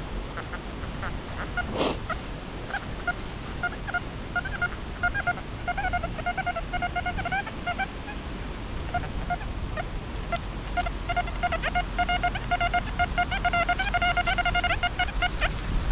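XP Deus metal detector signalling a buried target: runs of short, rapid beeps at one steady mid pitch, broken by a short gap about 8 seconds in. Wind buffets the microphone underneath.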